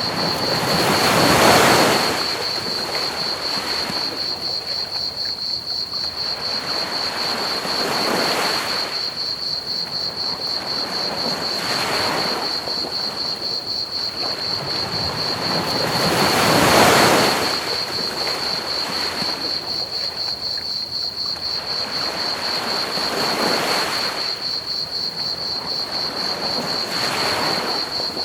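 Ocean waves breaking on a beach in slow surges every few seconds, the two loudest about a second and a half in and just past the middle. Underneath runs a steady high, pulsing cricket trill over an even hiss of pink noise.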